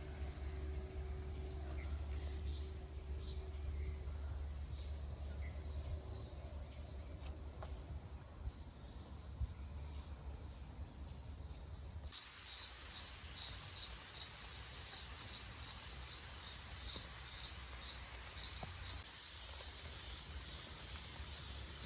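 Insects calling in a forest: a steady high-pitched drone over a low rumble, which cuts off abruptly about halfway through and gives way to a fainter hiss with rapid, evenly repeated high chirps.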